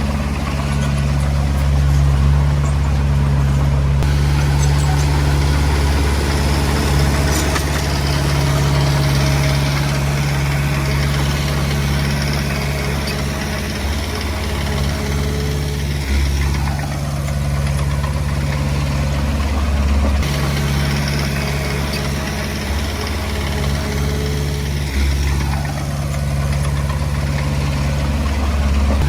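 Heavy diesel engine of earthmoving machinery running steadily at a low, even drone, with a few brief dips and a couple of faint falling whines.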